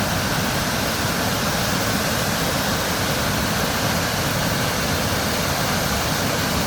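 Water pouring steadily over a stone dam spillway into the creek below: a constant, even rush of falling water.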